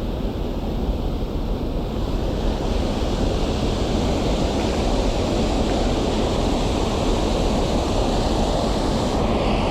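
Steady rushing noise of river water mixed with wind buffeting the microphone.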